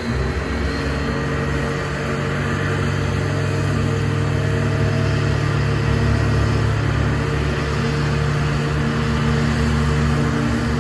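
Airbus A320neo jet engines running, a loud, steady low drone over a broad rushing noise; the level steps up at the start and then holds.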